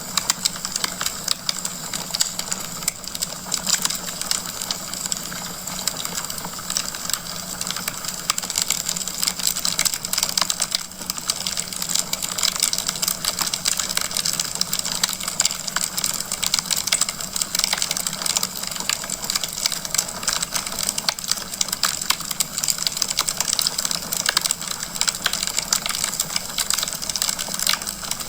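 Wood fire crackling in a fireplace: a steady stream of small pops and snaps.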